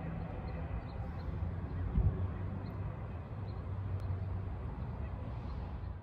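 Outdoor ambience in a garden: a steady low rumble, with one low thump about two seconds in.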